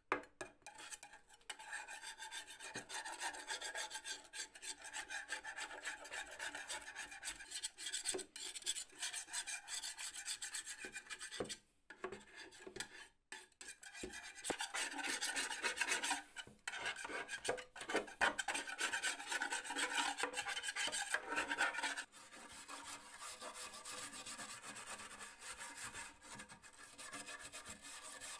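Rasping, scratching rub of abrasive work on the old metal mail box, stripping its surface, with two short breaks about 12 and 13 seconds in.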